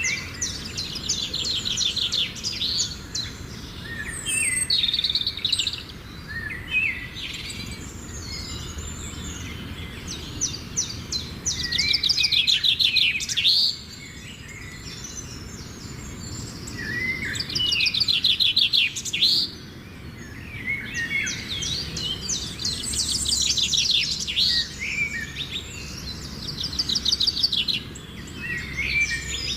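Parrots chattering: repeated bouts of rapid, shrill trilled chirps, each lasting a second or two, with short pauses between, over a faint steady low background noise.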